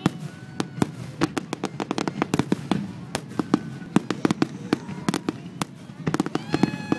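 Fireworks display: a dense, irregular run of sharp bangs and crackling pops from bursting shells, several a second without a break.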